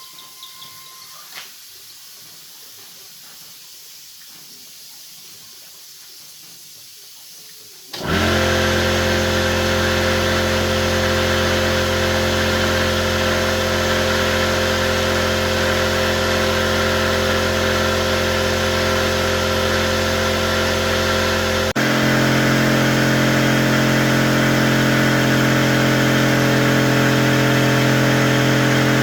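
A low hiss for several seconds, then an electric motor switched on about 8 s in, running loud and steady with a hum, its pitch stepping up about 22 s in.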